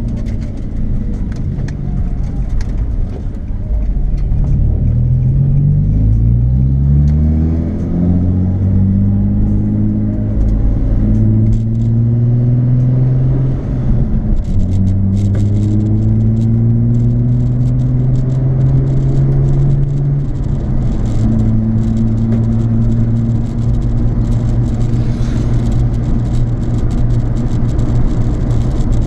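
Nissan 350Z's 3.5-litre V6 through a Japspeed aftermarket exhaust, accelerating up through the gears. The pitch climbs, drops at each gear change, and then holds steady as the car cruises.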